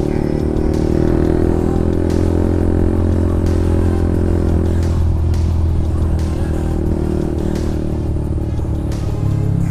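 Honda CB150R's single-cylinder engine running through a Lone Ride aftermarket exhaust while riding at a steady pace. The note eases slightly about halfway and picks up again near the end.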